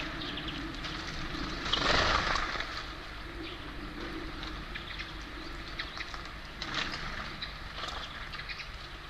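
Birds at a feeder: scattered short high chirps and a low cooing over a steady background rumble. A brief louder burst of noise comes about two seconds in.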